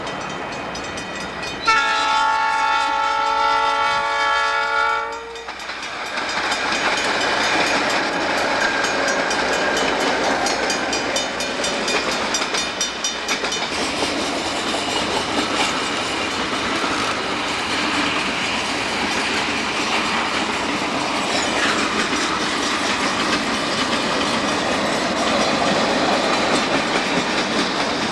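Diesel locomotive air horn blowing one long blast of about three and a half seconds, then a freight train's cars rolling steadily past with wheels clattering on the rails.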